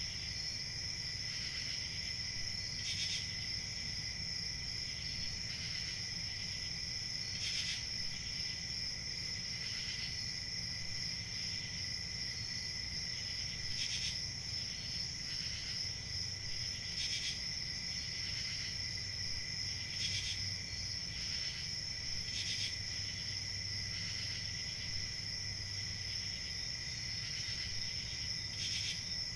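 Crickets chirping in a steady chorus, with a few louder individual chirps standing out every few seconds.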